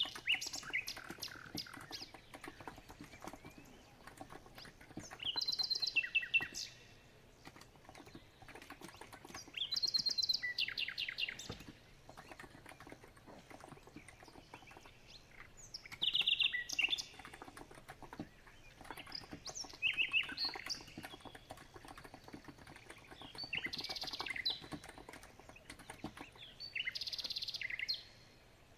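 Birds chirping and singing in short phrases every few seconds, the loudest sound. Under them, a steady patter of soft key presses from typing on a COX Empress electro-capacitive keyboard.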